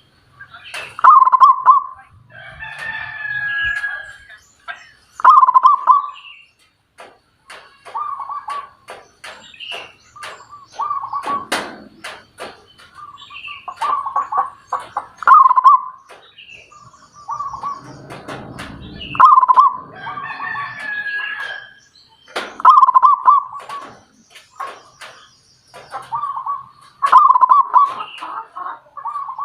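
A bird calling over and over in short repeated phrases, one every second or two, with several longer phrases among them and sharp clicks in between.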